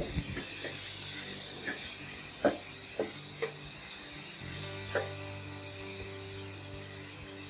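Raw mutton mince frying in oil in a non-stick wok, sizzling steadily, while a wooden spatula stirs it with a few irregular knocks and scrapes against the pan. This is the first fry of the mince, meant to drive off its raw smell.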